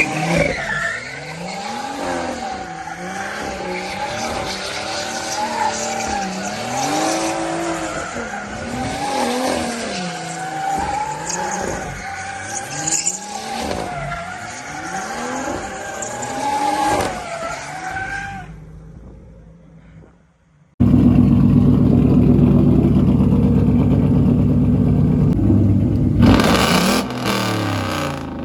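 A car being drifted: its engine revs up and down again and again while the tyres squeal, fading away after about eighteen seconds. Then, suddenly, a loud, deep engine runs steadily close by until the end.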